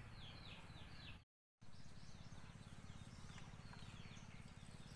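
Faint bird calls: short falling chirps repeated several times a second over a low background hiss, cut by a brief dropout of all sound about a second in.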